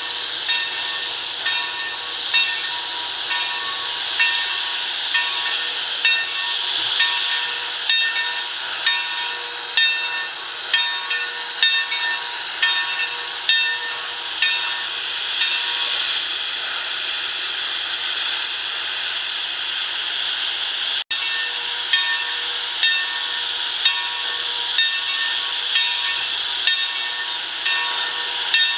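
Steam locomotive hissing steam, with a regular beat about once a second. For several seconds in the middle the beat drops out, leaving a smooth, continuous hiss, before the beat returns after a sudden break.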